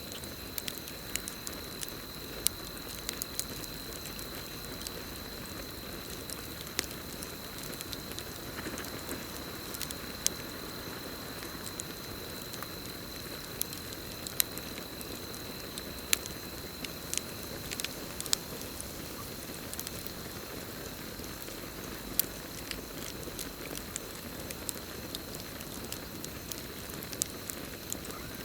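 Campfire burning with a steady low rush and scattered sharp crackles and pops at irregular moments. Over it runs a continuous high, even trill of crickets.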